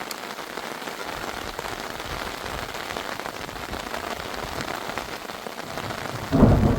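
Heavy rain falling steadily. Near the end, a sudden loud, deep rumble of thunder breaks in.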